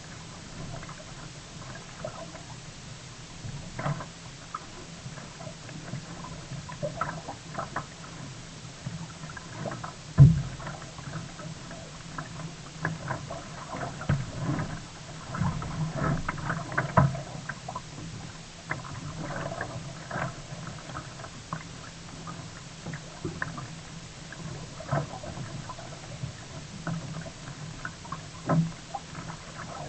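Sea kayak on the water: irregular paddle splashes and small knocks, with one heavier thump about ten seconds in.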